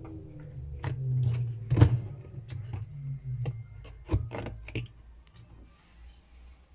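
LG F12B8WDS7 front-loading washing machine's drum coming to rest at the end of its spin: a low hum that dies away about five seconds in, with several clicks and knocks along the way.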